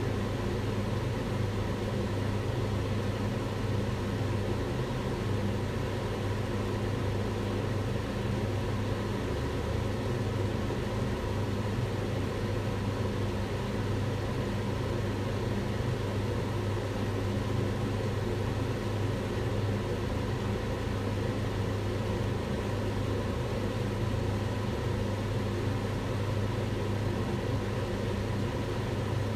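Kitchen range hood fan running steadily: an even rush of air over a low motor hum, with no change throughout.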